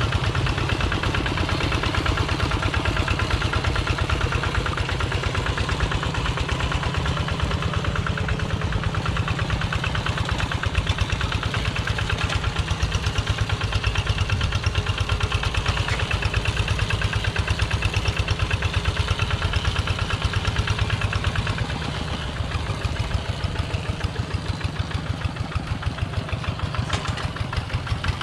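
Two-wheel walking tractor's single-cylinder diesel engine running steadily with a rapid, even chugging beat that eases off a little about three-quarters of the way through.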